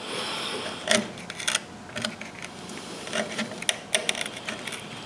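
Wood chisel paring out the corners of a rabbet by hand: a short scrape, then a scattering of light clicks and taps at uneven intervals.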